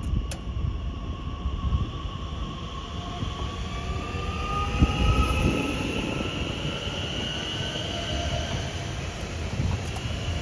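A train rolling on the rails: a steady low rumble with high whining tones over it that slowly drift in pitch.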